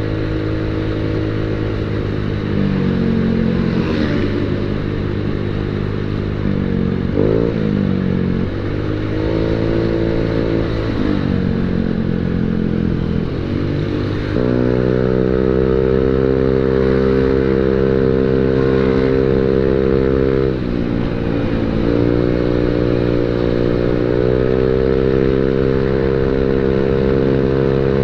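Automatic scooter engine running through an aftermarket quiet ('adem') exhaust and being revved. There are several short rises and falls in speed, then a step up about halfway through to a higher speed held for several seconds, a brief drop, and a rise to a steady higher speed again.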